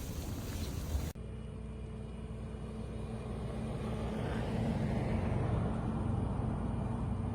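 Low engine rumble of a motor vehicle, growing a little louder midway and easing near the end. About a second in, a windy hiss cuts off abruptly as the rumble takes over.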